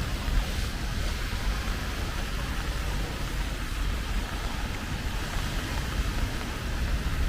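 Steady rainy street ambience: a low rumble of traffic under an even hiss of rain and wet roads.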